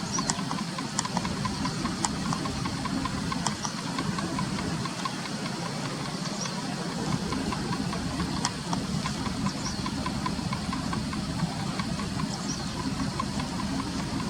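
A steady low rumble of background noise, with faint ticks and a few sharp clicks scattered through it.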